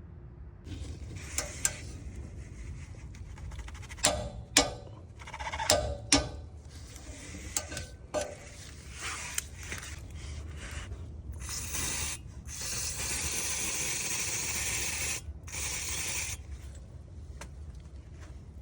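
Metal hand tools clicking and clattering in engine work, with sharp knocks in the first half. Then a steady hiss lasts about four seconds, over a low background hum.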